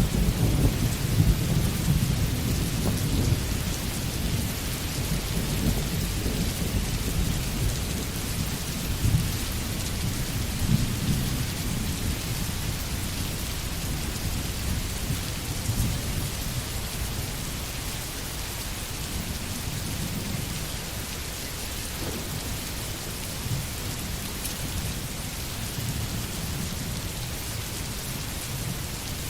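Steady rain falling on forest foliage, with a low rolling rumble underneath that is strongest in the first few seconds and swells again a few times.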